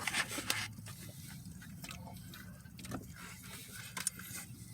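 Quiet eating sounds: scattered crinkles and clicks of fast food being handled and chewed, a small cluster in the first second and a few more later, over a low steady hum.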